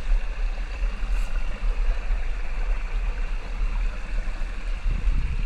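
Water running steadily in a garden pond, a continuous rushing with a low rumble underneath.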